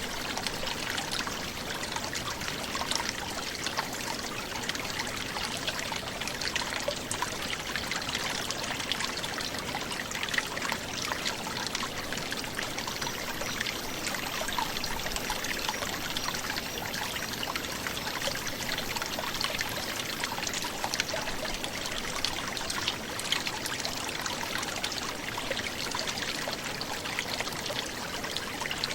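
Small forest brook gurgling and trickling over stones, a steady flow of water.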